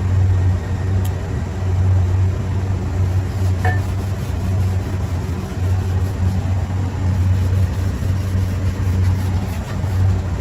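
Steady low mechanical hum of running machinery, with a couple of faint light metallic ticks.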